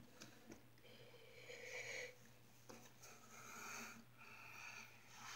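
Faint breathing close to the microphone, three slow breaths in a row, with a few light clicks.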